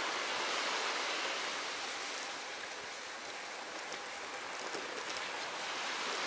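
Steady rushing hiss of water, the sound of rain and wet surroundings, with no music or voice over it; it eases slightly around the middle.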